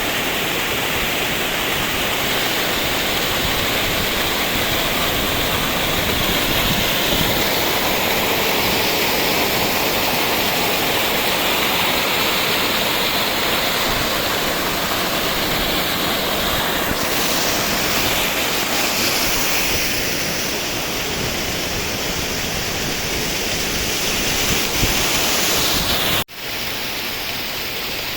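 River water rushing steadily, a loud even noise of flowing water. Near the end it breaks off for an instant and comes back slightly quieter.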